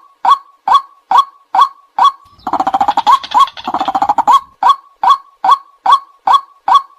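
White-breasted waterhen calling: a steady series of loud 'kwak' notes at about two a second. About two and a half seconds in, this breaks into a fast, dense chattering run lasting about two seconds, then the regular 'kwak' notes resume.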